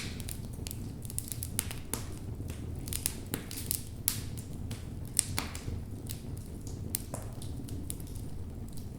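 Wood fire burning in a fireplace: irregular sharp crackles and pops from the burning logs, several a second and scattered unevenly, the loudest about five seconds in, over a steady low rumble of the flames.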